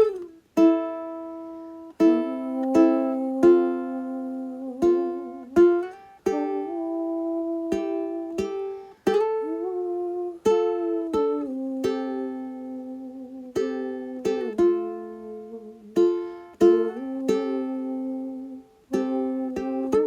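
Slow instrumental music on a plucked string instrument: single notes and chords struck one at a time and left to ring, some with vibrato or sliding pitch.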